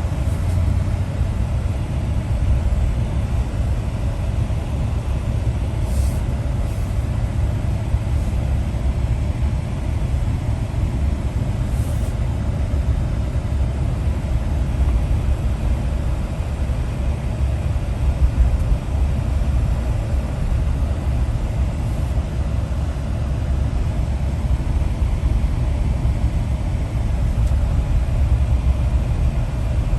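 Steady low rumble of a vehicle on the move, heard from inside, with a few faint ticks.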